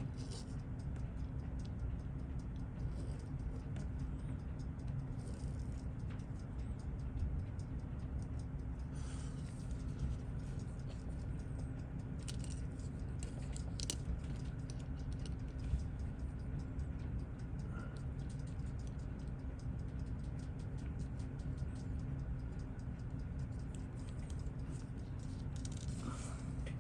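Small light clicks and scratches of tiny watch parts and tools being handled on a bench, over a steady low hum, with a few sharper clicks scattered through.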